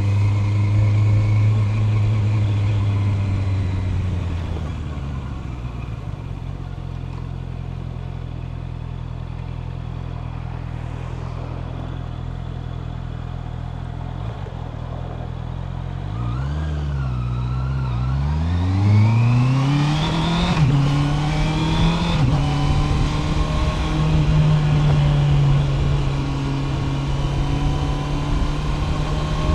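Honda CB650R's 649 cc inline-four engine dropping from cruising to a steady idle for about ten seconds, then revving up as the bike pulls away, climbing in pitch with a quick upshift, and settling into steady cruising.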